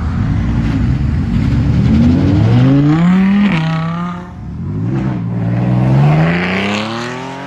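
Car engine revving hard under acceleration, its pitch climbing, dropping at an upshift about three and a half seconds in, then climbing again before easing off near the end.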